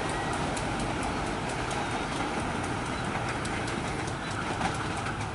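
Passing train's wheels running on the rails, with a quick run of clicks from the rail joints that thins out toward the end.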